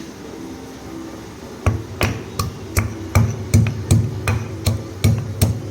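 Repeated chopping or pounding strokes on a kitchen surface, about two to three a second, each a dull thud with a sharp click, starting a little under two seconds in.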